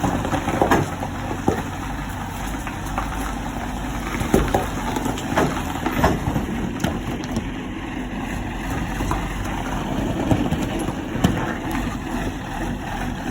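Heavy diesel truck engine running slowly while it pushes a disabled KamAZ truck on a rigid tow bar, with scattered knocks and clicks over a steady low rumble.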